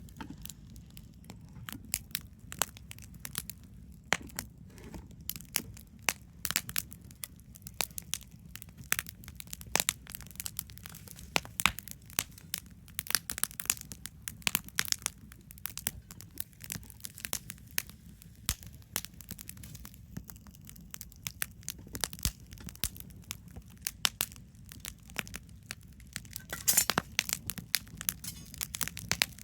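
Wood campfire crackling: irregular sharp pops and snaps over a steady low rumble, with a quick flurry of pops near the end.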